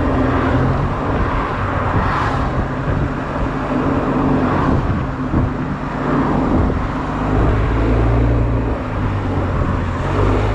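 Honda Silver Wing scooter's engine running under way, with wind and road noise rushing over the camera's microphone. The low engine hum shifts in pitch about two-thirds of the way through.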